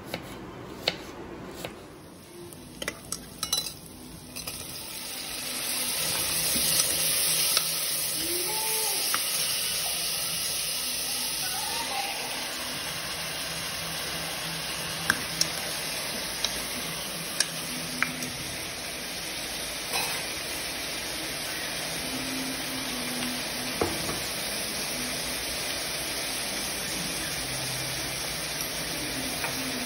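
A kitchen knife chops diced yellow cucumber on a wooden cutting board, a few sharp knocks. About five seconds in, a steady sizzle of frying takes over as the cucumber and tomato cook in the pot, with occasional clinks of a spoon against the pot.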